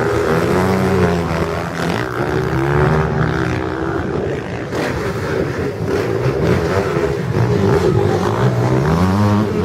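Several racing motorcycle engines revving, their pitch rising and falling as they accelerate and shift gears, overlapping one another.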